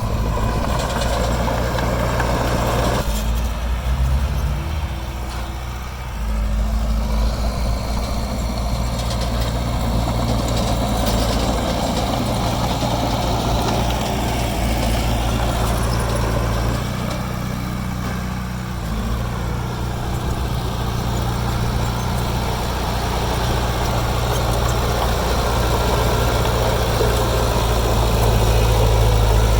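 Heavy diesel engine of earthmoving machinery running, its low note shifting several times as the load changes.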